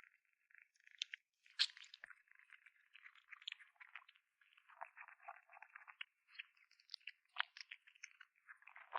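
Kitten chewing meat, close up: faint, uneven wet smacking and crunching bites with a few sharper snaps.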